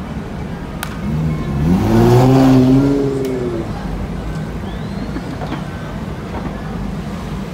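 A car engine revving as it accelerates past: its pitch climbs for about a second, holds, then falls away as it fades, over a steady rumble of city traffic.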